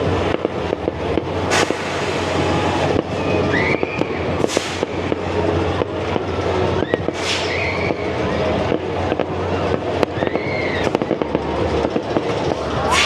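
Fireworks going off: four loud booms a few seconds apart with crackling between them, over a steady low rumble.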